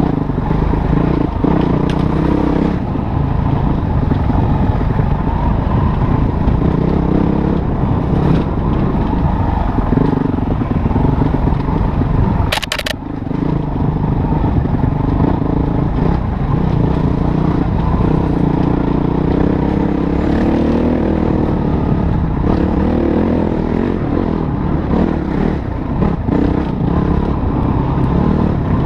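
Motorcycle engine running as it is ridden, its pitch rising and falling with the throttle, with a brief drop and a sharp crackle about halfway through.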